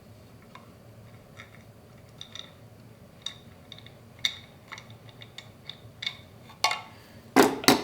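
Light clicks and taps of a small soldered wire connector being fiddled into a hole in a 3D-printed plastic battery box, with a louder clatter near the end.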